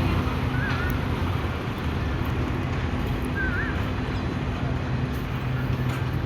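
Tractor's diesel engine running steadily at idle, a constant low hum. Two short warbling chirps sound over it, about a second in and again midway.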